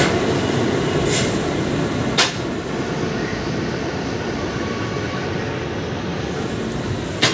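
Passenger train coach rolling slowly through a station yard, heard from inside: a steady rumble of wheels on track, with a few sharp clicks as the wheels cross rail joints.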